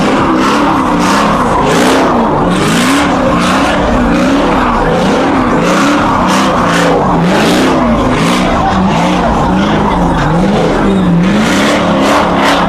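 Car engine revving up and down over and over, about once a second, while its tyres squeal and skid.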